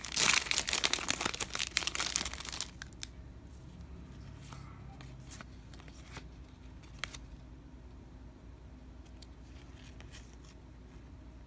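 A trading-card pack wrapper being torn open and crinkled, loud for about the first three seconds, followed by a few faint ticks and taps.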